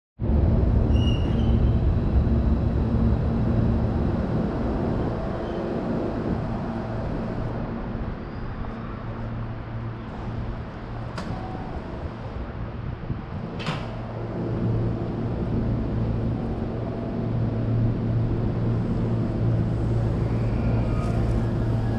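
Steady low electrical hum of a Hankyu electric train, with two sharp clicks about 11 and 14 seconds in.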